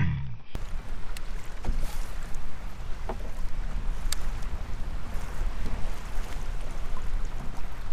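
Wind rumbling on the microphone and water lapping against a fishing kayak, with a few faint clicks. It opens with the tail of a falling pitched sound that cuts off about half a second in.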